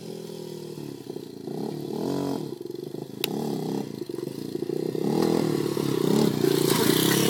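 Dirt bike engine revving up and down repeatedly, growing louder over the last couple of seconds as the bike comes nearer. A single sharp click sounds about three seconds in.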